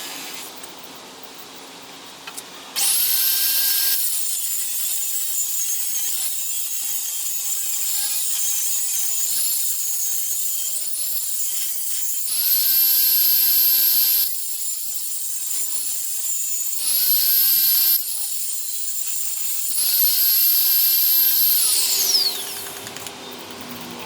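Electric handheld power tool triggered on and off four times. Each time its high whine rises as it spins up and dies away when released, with a rough hissing of work between the runs.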